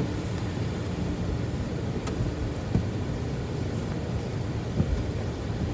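Tunnel car wash heard from inside the car's cabin: a steady low rumble and hiss of the wash equipment and water, with a few soft thumps as the cloth mid curtain sweeps over the car.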